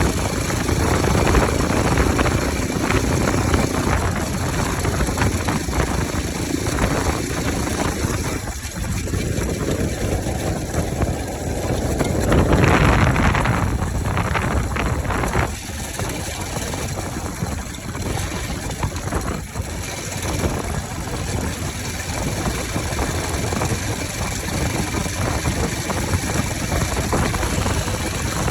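Bajaj Pulsar RS200's single-cylinder engine running with its air filter removed, idling, with one rev that rises and peaks about halfway through before it settles back to a steady run.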